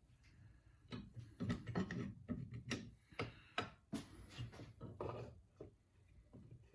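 Irregular light clicks and knocks of winch parts being handled and fitted together during reassembly of a Ramsey worm-gear winch, starting about a second in and easing off a little after five seconds.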